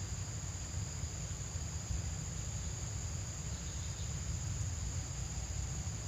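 Insects chirring steadily as one high, continuous drone, over a constant low rumble.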